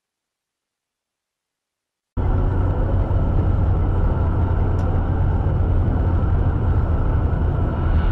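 Silence, then about two seconds in a steady low rumble of a motor vehicle driving cuts in abruptly: engine and road noise.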